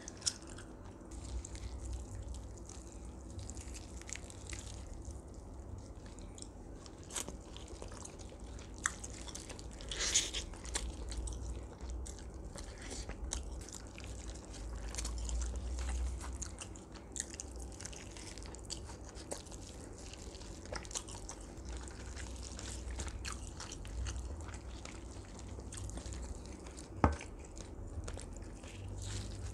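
Close-miked chewing and biting of roast duck: wet chewing with scattered crunches and crackles as the skin is bitten. There is one sharp click near the end.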